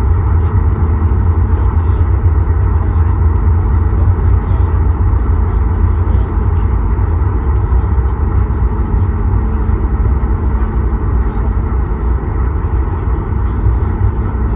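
Steady cabin noise inside a Boeing 737 MAX 8 airliner: a deep, even rumble of engines and airflow with a faint hum.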